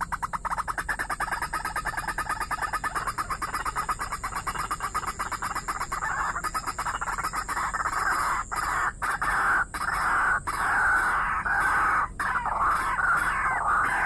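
Rapidly repeated calls of a rail-family waterbird. A fast, even train of pulses thickens into a louder, continuous clamor from about eight seconds in, broken by a few brief pauses.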